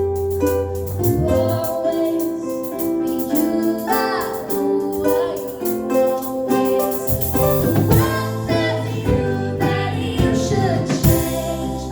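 Live country and bluegrass band playing an instrumental passage: fast-picked acoustic string instruments with a sliding melody line. Low bass notes come back in about seven seconds in.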